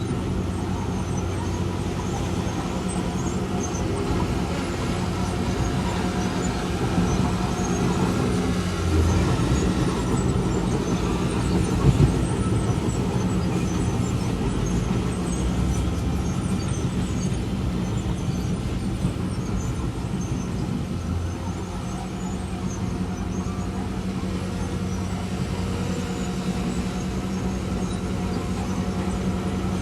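Heavy diesel earthmoving machinery running steadily under load, its engine note rising a little partway through, with a short sharp clank about twelve seconds in.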